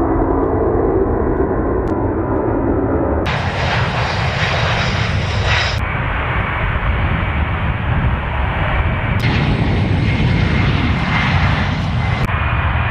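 Aircraft engines running loud and steady, the sound changing abruptly several times, about every three seconds, as it cuts from one aircraft recording to another.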